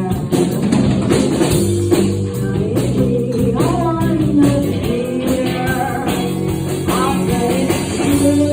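Rock band playing live: guitar and drums with a singer's voice carrying a melody line through the middle of the passage.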